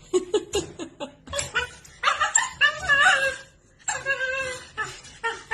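A dog making a series of short calls, with a few longer calls that bend in pitch.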